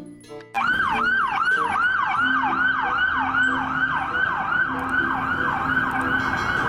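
Toy police car's electronic siren, a fast repeating falling wail of about three sweeps a second, starting about half a second in and cutting off suddenly near the end.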